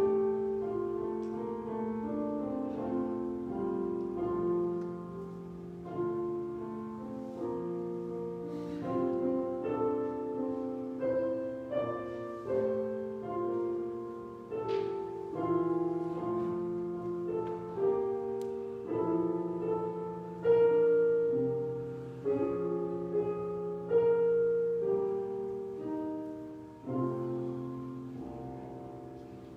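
Solo piano playing slow music in chords, each struck and left to ring, dying away near the end.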